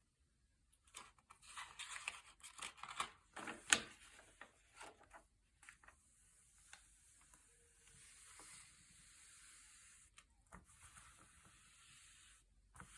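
Thick, glossy paper pages being turned and handled: a run of rustling and crackling from about a second in until about six seconds, with a sharp snap of the paper near four seconds. After that, mostly a faint hiss with a couple of light ticks.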